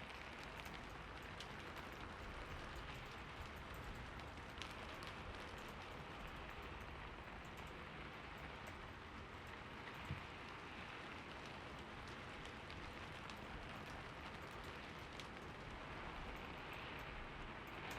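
Steady rain falling, an even hiss with scattered faint drop ticks. A single soft low thump about ten seconds in.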